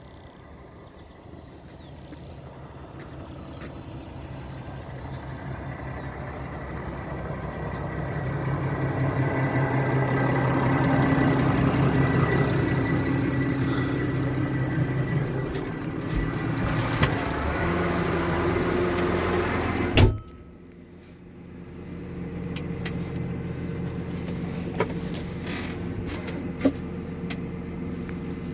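New Holland T7 tractor's diesel engine working under load, growing louder as it draws near and staying loud for several seconds. About twenty seconds in, a sharp click and a sudden drop come, then a steady engine sound carries on more quietly.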